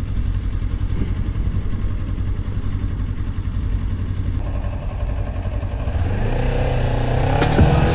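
Kawasaki Ninja 400's parallel-twin engine running under way, with a steady low rush. About six seconds in, the engine note rises as the bike accelerates.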